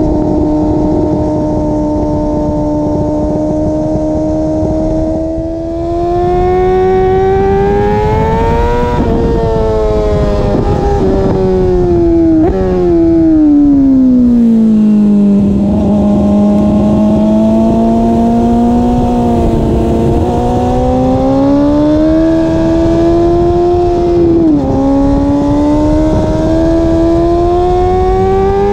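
BMW S1000RR's inline-four engine running hard on track, its note climbing and falling as the bike accelerates and slows for corners, with sudden pitch steps at the gear changes. Heard close to the exhaust.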